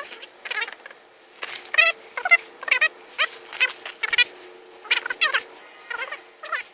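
A cat meowing repeatedly in short, wavering calls, a few a second in clusters, over a faint steady hum.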